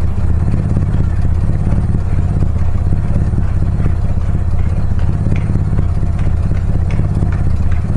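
Mitsubishi Lancer CK4's four-cylinder engine idling low and rough with a faulty air flow sensor fitted, the engine shaking: a steady low running sound with an uneven pulse.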